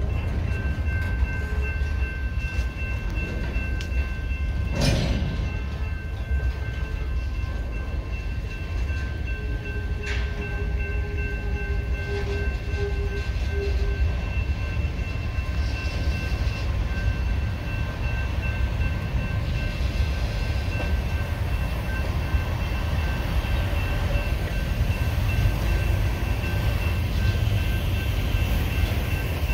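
Freight train of boxcars rolling past: a steady low rumble of wheels on the rails with a thin, steady high-pitched ringing over it, and a sharp clank about five seconds in.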